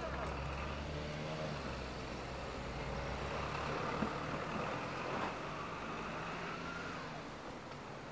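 Meitetsu μSKY electric train running away across a steel truss railway bridge: a low rumble of wheels on the bridge that drops off about four seconds in, leaving a fainter running noise that fades as the train recedes.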